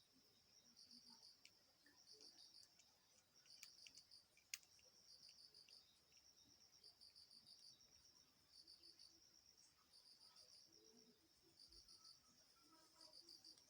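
Faint crickets chirping in steady repeated trains of short, high pulses, with a few soft clicks among them.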